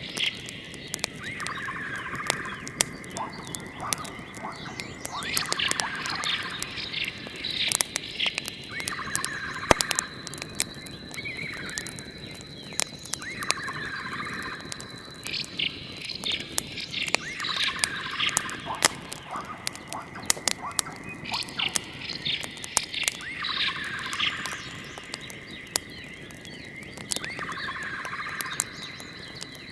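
A bird call repeats every two to four seconds over scattered sharp crackles, with a faint steady high tone underneath: a looped nature ambience with fire crackle.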